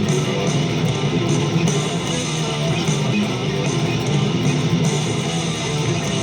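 Heavy metal music: distorted electric guitar playing an instrumental passage over bass, loud and continuous with no singing.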